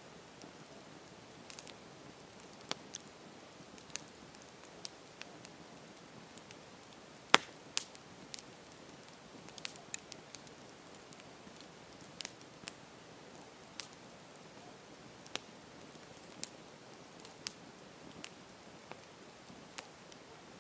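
Campfire crackling: a soft steady hiss of burning wood with irregular sharp pops and snaps, the loudest about seven seconds in.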